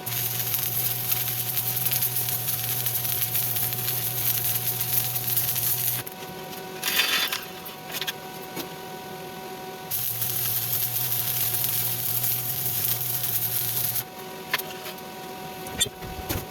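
Stick-welding (SMAW) arc crackling and sputtering on a steel plate in two runs, one of about six seconds and one of about four, with a steady hum under each. Between the runs there is a brief scratchy noise about seven seconds in.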